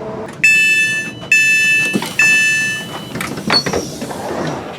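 Train door warning beeps: three long, steady electronic tones in a row, followed by a few knocks.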